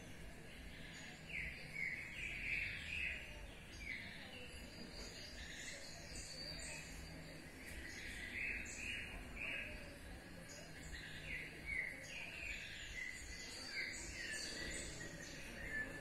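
Several small birds chirping and calling in the trees: many short, quick notes, some in little runs, over a faint steady background noise.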